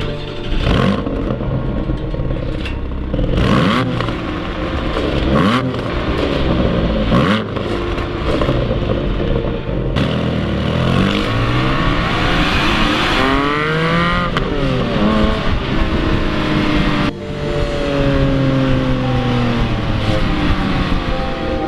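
Porsche 718 Cayman GTS 4.0's 4.0-litre naturally aspirated flat-six starting and then revved through its exhaust. It gives several short blips, then a longer rise and fall in pitch around the middle, and the revs come slowly back down near the end.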